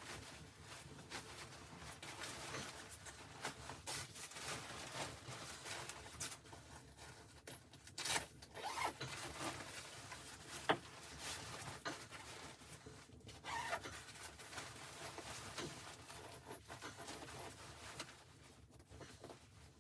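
Irregular rustling and scraping, with a few sharp clicks scattered through.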